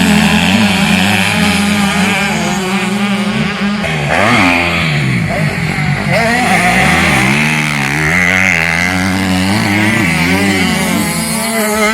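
Several motocross bikes' engines revving, their pitches rising and falling and overlapping, with one steady engine note running underneath.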